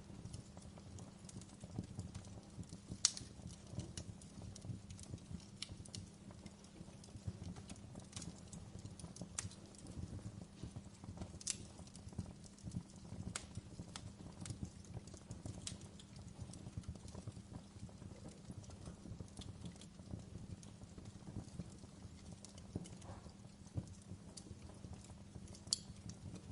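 Wood fire crackling in a fireplace: irregular sharp pops and snaps over a steady low rumble of burning, with the loudest pop about three seconds in and other strong ones near the middle and near the end.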